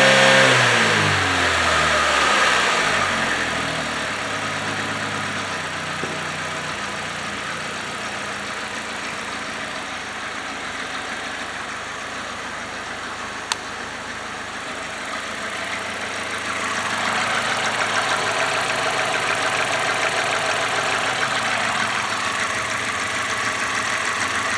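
2007 Chevrolet Malibu's 2.2-litre Ecotec four-cylinder engine being test-run: revs fall back to idle over the first few seconds, then it idles steadily, getting louder again from about two-thirds of the way through. A single sharp click near the middle.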